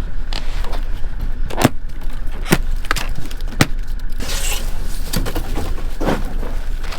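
A steady low rumble with a handful of separate sharp knocks and clicks, and a short hiss about midway.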